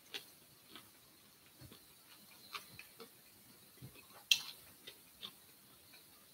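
Faint eating sounds of someone chewing a bite of grilled squid: scattered small clicks and mouth noises, with one sharper click about four seconds in.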